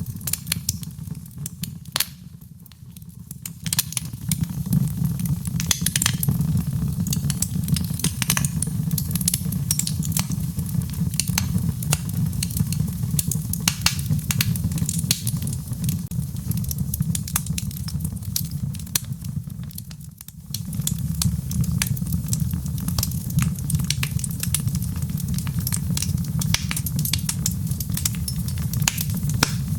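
Wood fire crackling and popping in a fireplace: a steady low rumble of flames under irregular sharp crackles. It briefly quietens twice, about two seconds in and again around twenty seconds.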